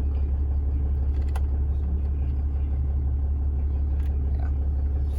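6.7-litre Cummins diesel idling, a steady low drone heard from inside the cab, with the A/C compressor working but no blower fan moving air. Two light clicks sound over it, one a little over a second in and one about four seconds in.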